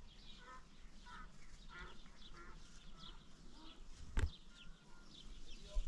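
Faint bird calls and chirps, repeated throughout, with one sharp knock about four seconds in.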